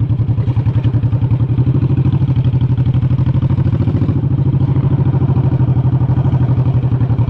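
Honda Shadow 1100's V-twin engine running steadily, its exhaust beating in a rapid, even pulse.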